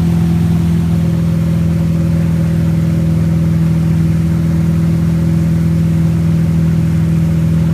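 Wake-surf boat's inboard engine running steadily at a constant pitch, a loud drone that does not rise or fall, under load towing a surfer.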